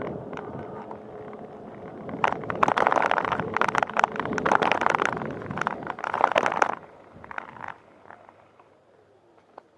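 Bicycle riding along a path: a steady rolling and wind noise, then about two seconds in a few seconds of loud, dense crackling and rattling, which dies away to quiet near the end.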